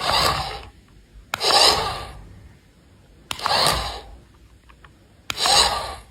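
Four rasping, scraping strokes, each under a second long and about two seconds apart.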